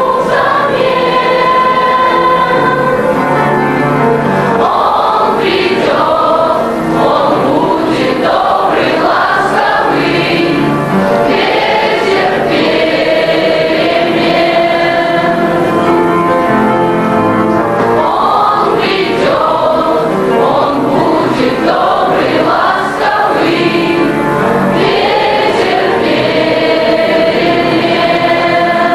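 School choir singing a song.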